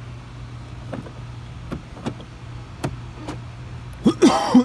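Steady low hum with a few faint clicks, then a short vocal sound about four seconds in.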